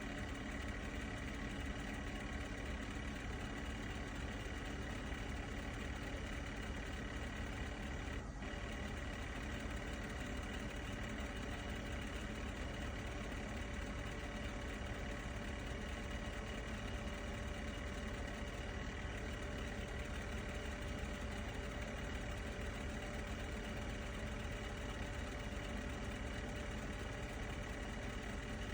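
An engine idling steadily, with one short click about eight seconds in.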